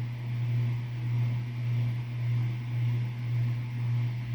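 A steady low mechanical hum with a slow, even throb, from a machine running in the room.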